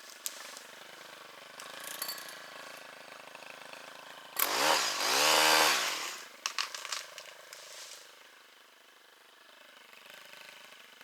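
Two-stroke chainsaw running low, then revved up and back down twice in quick succession about four to six seconds in, followed by a few sharp cracks or knocks before the saw settles back to a low idle.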